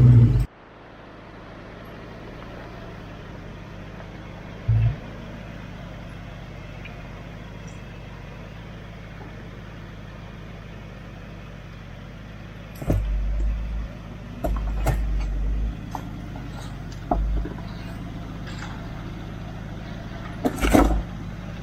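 Four-wheel-drive vehicle engine running at low revs while crawling a rocky creek track, a steady low hum. A few sharp knocks and short louder rumbles come through now and then, the last near the end.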